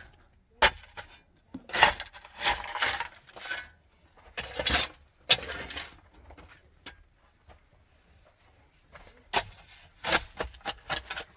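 Irregular clinks, knocks and scraping of hard objects being handled, in short bursts with quiet gaps between.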